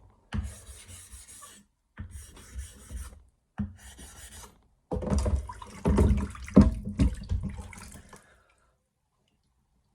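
Atoma 400 diamond plate rubbing on a wet 1000-grit soaking whetstone to dress it, in four bouts of strokes; the last and loudest runs from about five to eight seconds in, then stops.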